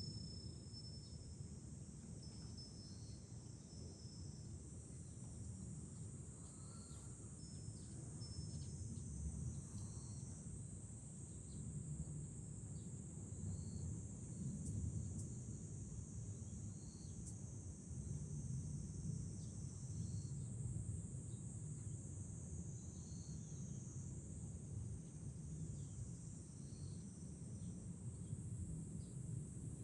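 Cicadas buzzing in a steady high-pitched chorus over a low rumble of wind on the microphone, with a faint short call repeating every couple of seconds.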